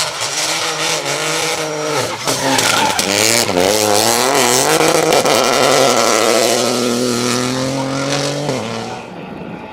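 Rally car engine at full throttle on a special stage, revving up and down through gear changes, then holding a long rising note that cuts off sharply near the end.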